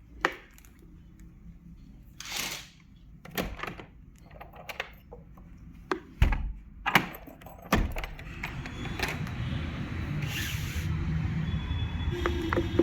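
A string of sharp knocks and clunks with a short hiss among them, like objects being handled and set down; a steady low rumble comes in about two-thirds of the way through and grows.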